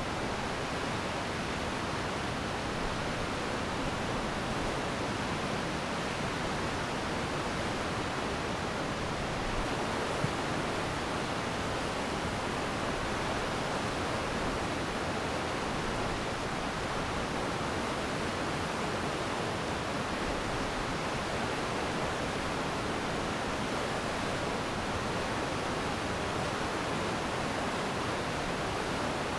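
Glacier meltwater stream rushing steadily, a dense even roar of fast-flowing water with no pauses.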